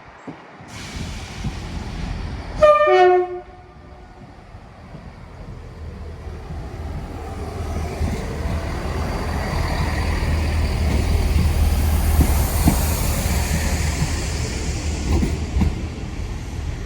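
A train horn gives one short blast about three seconds in. Then a train passes, its engine hum and wheel noise growing steadily louder to a peak about two-thirds of the way through and falling away at the end.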